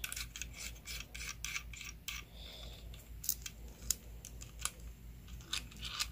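Small plastic parts of a ring light's phone holder and pan-tilt mount being handled and adjusted: an irregular run of short clicks and scrapes, some in quick clusters.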